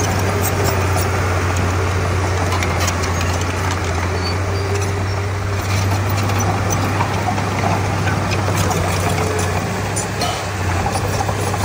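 Komatsu D31P bulldozer's diesel engine running steadily, with scattered sharp clicks and clanks over the engine note.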